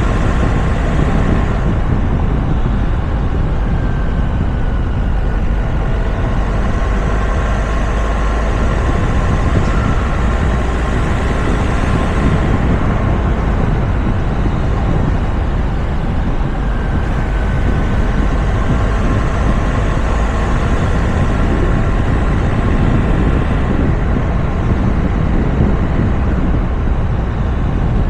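Wind and road noise on a roof-mounted camera of a moving Toyota RAV4: a steady, loud rush with a heavy low rumble, and faint whining tones that drift slightly in pitch.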